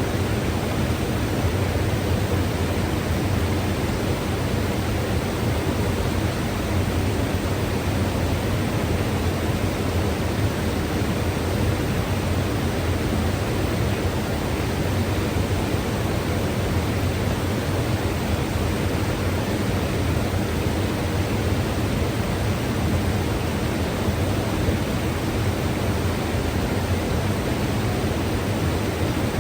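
Mountain river rushing steadily: a constant, even roar of flowing water, strongest in the low end.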